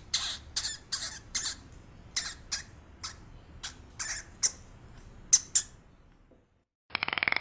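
A small animal's short, high-pitched squeaks, about fifteen of them in irregular succession, stopping a little after five seconds in. After a brief gap, a different, rough, rapidly pulsing animal sound starts near the end.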